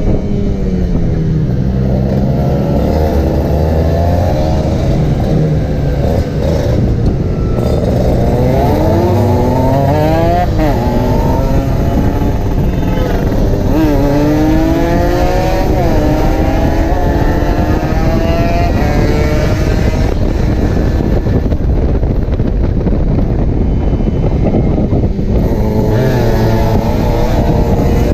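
Kawasaki Ninja 150's two-stroke single-cylinder engine under way at speed. Its pitch climbs through each gear and drops back at each shift, several times over.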